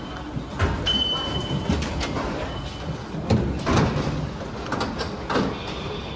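Paris Métro station noise: irregular metal clanks and knocks over a steady rumble, with several short high beeps, the loudest clanks a little past the middle.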